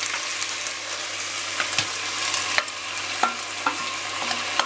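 Beef sizzling in a metal pot as sliced onions and peppers are tipped in, with a few sharp, briefly ringing clinks against the pot in the second half.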